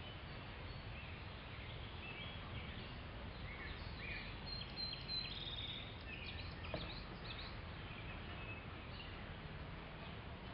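Birds chirping and calling in short repeated notes, busiest in the middle, over a steady low outdoor rumble. One short click about two-thirds of the way through.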